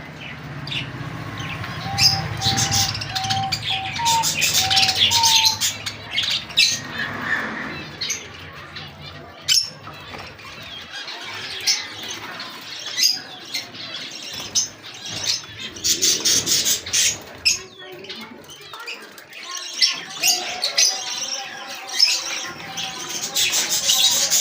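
Many small caged birds chirping and squawking, their short high-pitched calls overlapping.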